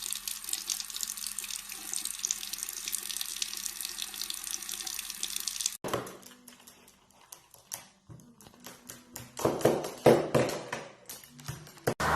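Running water, like a tap running into a sink, that stops abruptly about halfway through. Then come scattered light knocks and taps, a few louder ones among them.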